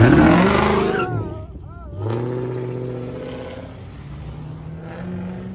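A car engine revving hard, loudest at the very start with its pitch climbing. A steady engine note follows about two seconds in and slowly fades.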